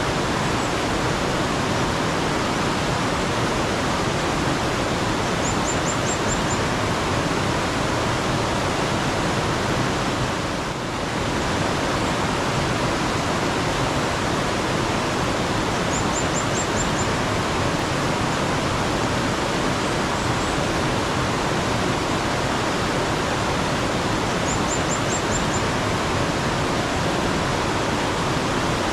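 Mountain stream water rushing steadily, with a bird giving a short, fast run of high chirps three times, about every ten seconds.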